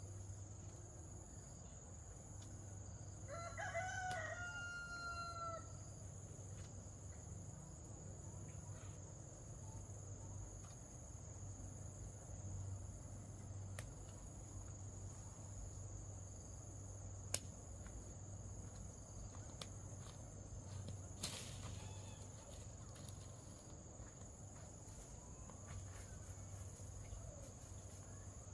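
A rooster crows once, about three seconds in: a single call that rises and then holds for about two seconds. A steady high insect drone runs underneath.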